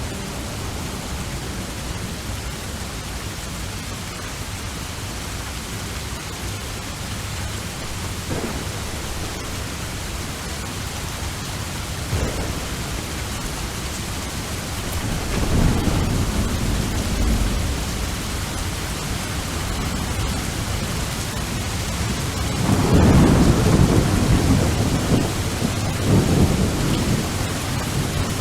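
Steady rain with thunder rumbling twice, the second roll, about two-thirds of the way in, the louder and longer.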